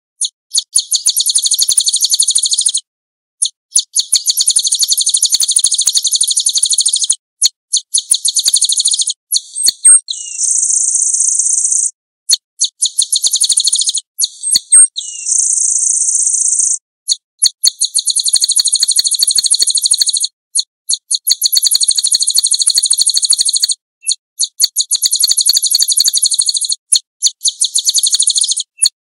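Small songbird singing long, rapid, high-pitched trills in phrases of about two to four seconds with brief pauses between them, and two smoother, shorter phrases in the middle.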